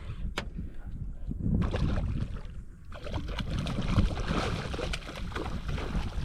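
Water splashing and sloshing around a small fishing skiff, over a low rumble of wind on the microphone, with a sharp knock just under half a second in.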